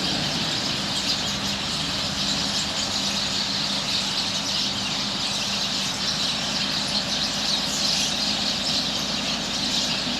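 A large flock of birds chattering together in their roosting trees as they settle for the night: a dense, continuous din of many overlapping high calls. A steady low hum runs underneath.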